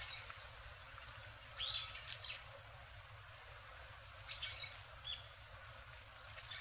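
Birds chirping: short high calls in brief clusters about a second and a half in, about four seconds in, and again at the end, over a faint steady outdoor hiss.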